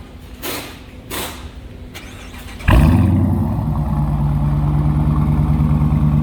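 Dodge Charger R/T's 5.7 Hemi V8 firing up suddenly about two and a half seconds in, then settling into a steady, loud idle through its aftermarket exhaust.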